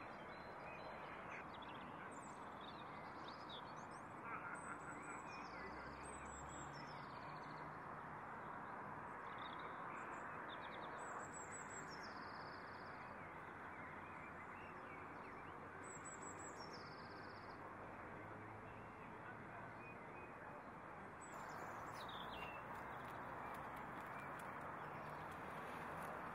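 Outdoor ambience: a songbird sings short, falling high-pitched phrases every few seconds over a steady background hiss.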